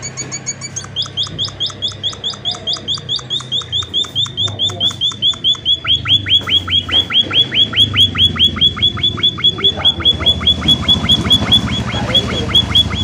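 An emprit (munia-type finch) calling gacor, in a fast, even run of short sharp notes, about five or six a second, each note sliding down in pitch. A low hum runs underneath, and the calling stops abruptly near the end.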